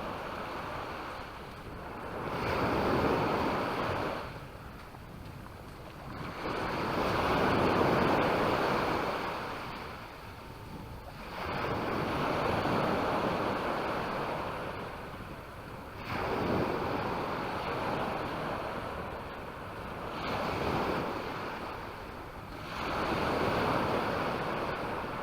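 Sea waves breaking and washing up the beach, the surf noise swelling and falling back every four to five seconds.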